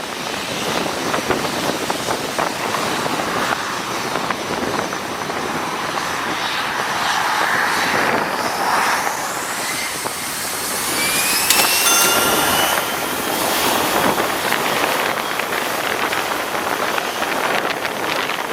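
Airbus airliner's jet engines at takeoff power: a steady loud rush with a whine that rises in pitch around the middle.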